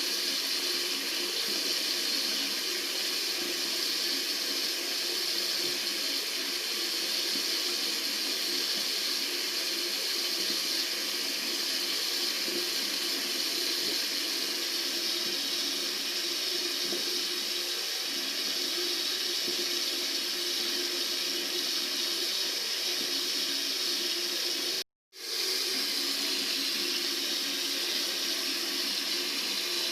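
Tap water running steadily in an even, hissing stream, used as a soothing white noise for crying babies. It cuts out briefly to silence about 25 seconds in, then resumes.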